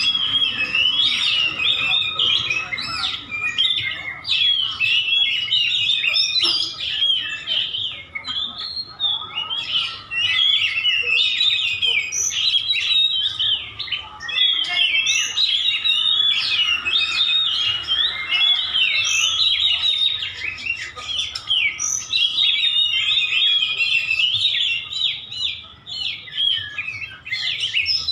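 Oriental magpie-robin of the white-breasted form singing continuously: a fast, unbroken run of varied chirps and short whistled notes.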